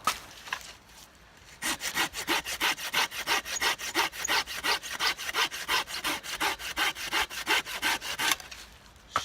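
Hand saw cutting wood in quick, even back-and-forth strokes, starting about a second and a half in and stopping shortly before the end.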